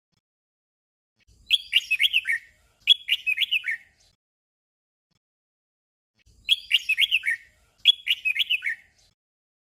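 Red-whiskered bulbul singing a short, fast phrase of descending notes twice in quick succession, then the same doubled phrase again after a pause of about two seconds.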